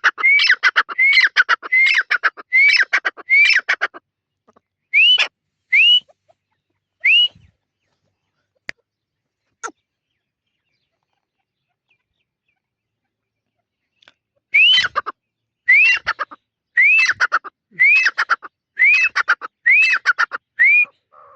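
A bird calling over and over in short, harsh, rising-then-falling notes, about two a second for the first four seconds, then a few single calls. After several seconds of quiet broken by two sharp clicks, it calls again in a run of about eight notes.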